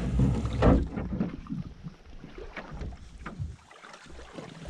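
A canoe being pushed off from shore into the water: a loud low rumble in the first second, then scattered light knocks of the hull.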